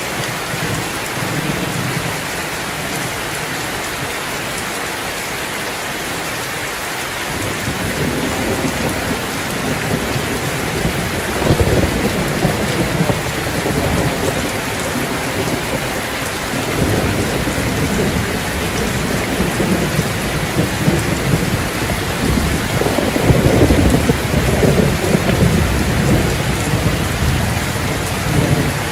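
Steady heavy rain, with long low rolls of thunder rumbling in from about a quarter of the way through and swelling several times, strongest near the end.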